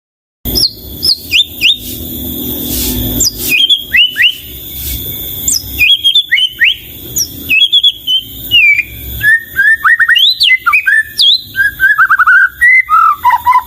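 White-rumped shama (murai batu) singing a fast, varied song of clear whistles and sharp chirps, starting about half a second in, with quick repeated notes in the second half and a run of lower notes near the end.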